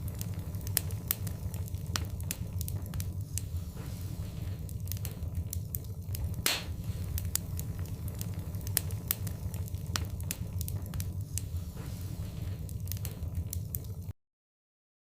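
Fire in a fireplace crackling, with frequent sharp pops over a low steady rumble. One pop about six seconds in is louder than the rest. The sound stops abruptly near the end.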